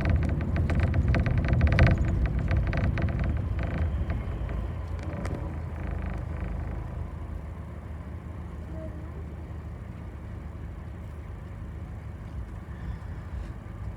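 Bus heard from inside the cabin: a loud low rumble of the engine and road with fittings rattling, which dies down over the first several seconds to a quieter, steady low hum.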